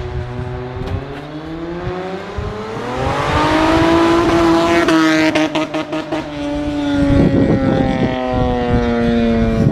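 Honda V6 with custom stainless headers, a straight pipe and a Cherry Bomb resonator, driving past under acceleration in first gear. The engine note climbs in pitch for about three seconds, is loudest around four to five seconds in with a few sharp clicks, then slides slowly down in pitch as the car goes by.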